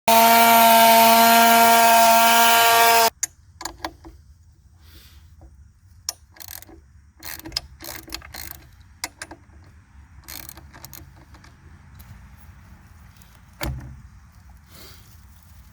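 Two-stroke chainsaw on an Alaskan chainsaw mill running at a steady high pitch, cutting off abruptly about three seconds in. Scattered light clicks and knocks follow.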